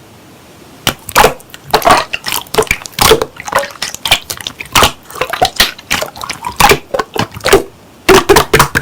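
Slime being squished and pressed, making irregular runs of crackling pops and clicks that start about a second in.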